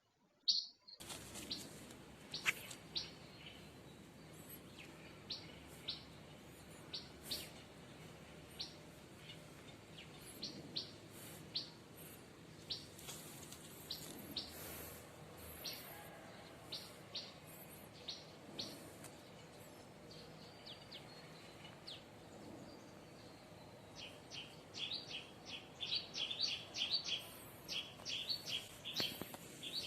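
Wild birds chirping outdoors: short, scattered calls over a low background hiss, growing into a quick, dense run of chirps in the last few seconds.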